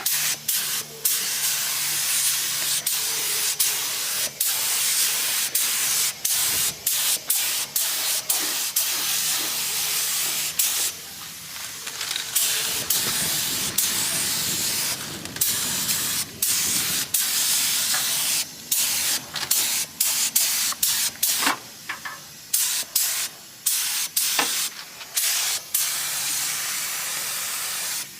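Compressed-air paint spray gun hissing in repeated short bursts, the trigger let off and pulled again with brief breaks between passes.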